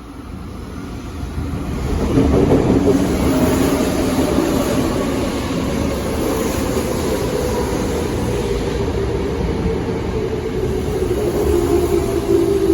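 Tokyo Metro 05 series electric train pulling into a station, growing louder over the first couple of seconds. Its wheels rumble on the rails under a motor whine that slowly falls in pitch as it brakes.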